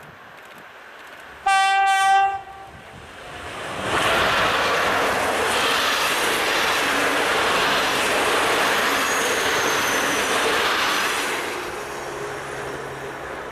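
An EP09 electric locomotive sounds a short horn blast about a second and a half in. It then passes hauling passenger coaches: a loud, steady rush of wheels and air for about seven seconds that fades near the end.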